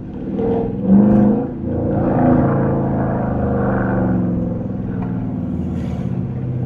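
5.7-litre HEMI V8 through a loud aftermarket exhaust, catalytic converters still in, rising in revs about a second in, holding under throttle, then easing off near the end.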